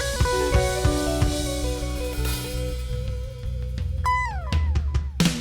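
A band playing with guitar and drum kit: guitar notes over the drums, then one long held guitar note with vibrato, a sliding drop in pitch about four seconds in, and a loud drum hit near the end as the music dies away.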